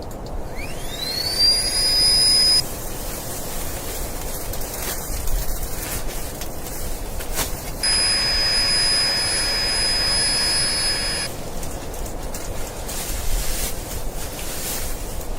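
Steady rushing noise of snowstorm wind. A high, thin whistle sounds twice over it: first it rises and holds briefly near the start, then it holds for about three seconds in the middle.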